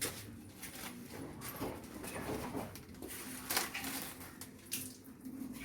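Faint, irregular rustling and crinkling as a sanitary napkin and its wrapper are handled and peeled apart.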